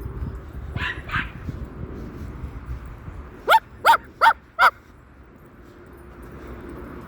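Moluccan cockatoo imitating a dog's bark: two faint short calls, then four loud, sharp barks in quick succession, each falling in pitch.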